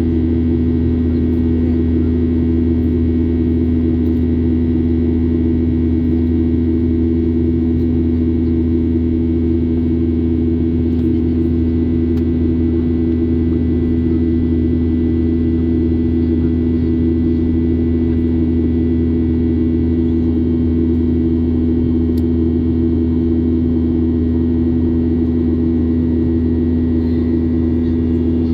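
Steady, loud drone of a Boeing 737-800 in flight, heard from inside the passenger cabin: engine hum and airflow noise with a constant low tone and no change in pitch.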